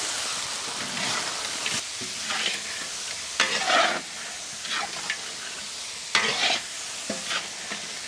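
Food sizzling in hot oil in a pan, with a utensil stirring and scraping through it in several short, irregular strokes over a steady frying hiss.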